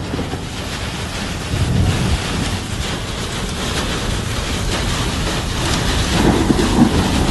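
Heavy rain falling in a storm, a steady dense hiss, with wind buffeting the microphone in low gusty rumbles.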